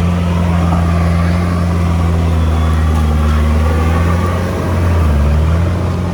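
Heavy diesel engine of earthmoving equipment running steadily at a low pitch; its pitch dips briefly and it grows a little louder near the end.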